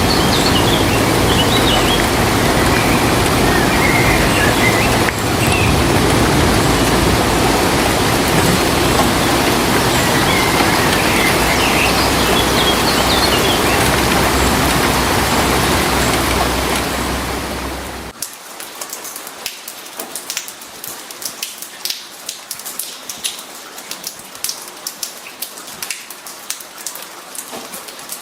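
Heavy rain pouring steadily, with a few high chirps over it. About eighteen seconds in, it cuts abruptly to light rain: scattered individual raindrops ticking and tapping on a hard surface.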